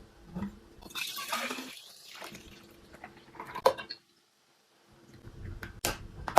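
Food containers and packaging being handled, with a few sharp clicks and some liquid sounds. The sound drops out completely for about a second, about four seconds in.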